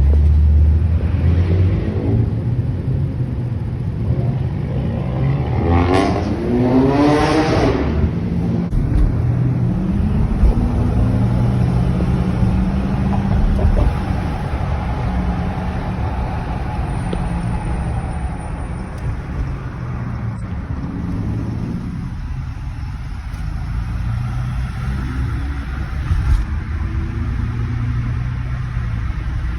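Car engine running on the road, its pitch shifting with speed, with a sharp climb in revs about six seconds in as it accelerates.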